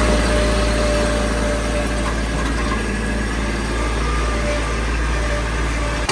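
Engine of a compact construction machine running steadily at an even speed, with a strong low hum.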